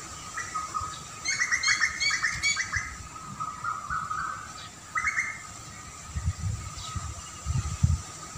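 Wild songbirds chirping: a fast run of chirps about a second in and a shorter burst around five seconds, over a steady high-pitched drone. Low rumbles come in near the end.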